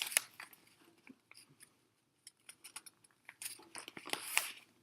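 A sheet of paper being folded and creased by hand: soft crinkles and rustles, sparse at first and busier near the end.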